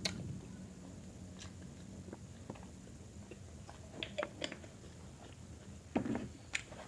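Quiet close-up chewing and mouth sounds of someone eating, with scattered small sharp clicks, a few bunched together about four seconds in and a louder one about six seconds in.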